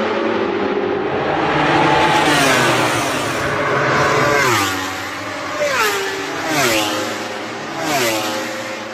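A racing superbike engine at high revs: its pitch climbs steadily for about four seconds, then falls steeply four times in quick succession, each fall about a second apart with a brief swell in loudness.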